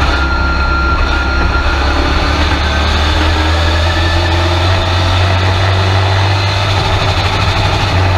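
Race truck engine running at a steady, unchanging speed, heard loud from inside the cab. A thin high whine sits over it for the first two seconds or so.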